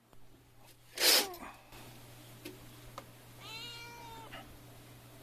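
A domestic cat meows once, a short call that falls slightly in pitch, about three and a half seconds in. Earlier, about a second in, comes a loud, brief noisy burst that is the loudest sound, over a faint steady hum.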